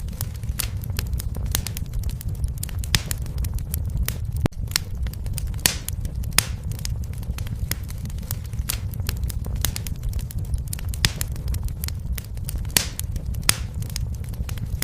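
Wood fire crackling: a low, steady rumble of flames under frequent irregular sharp pops and snaps.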